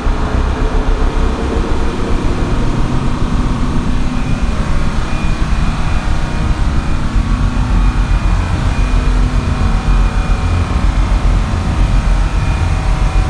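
Twin Detroit Diesel engines of a large standby generator running steadily: a loud, deep diesel rumble with a thin, steady high whine above it.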